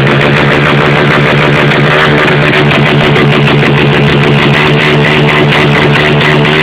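Small-displacement motorcycle engine held at its rev limiter, a loud, steady buzz at one unchanging pitch with a rapid stutter from the ignition cut.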